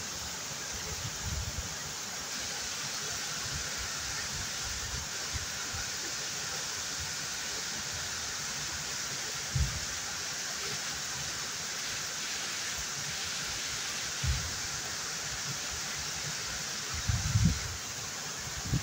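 Waterfall: a steady rush of falling water, with a few brief low thumps near the middle and toward the end.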